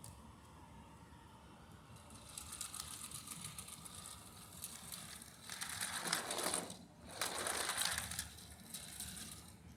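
Small plastic Lego parts clicking and rattling in a dense clatter. It starts about two seconds in, swells to its loudest in two stretches around the middle with a short break between them, and thins out near the end.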